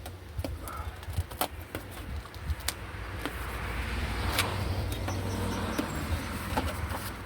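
Soundproofing sheet being pulled away from the inner door panel: scattered clicks and crackles, then a rustling, tearing noise that builds through the middle and fades again.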